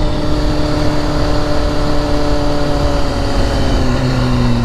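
Vehicle engine on the highway, its note falling slowly as it slows down, over steady road and wind noise.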